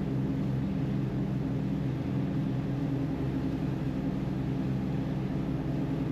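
A boat's engine running steadily, an even low drone with no change in speed.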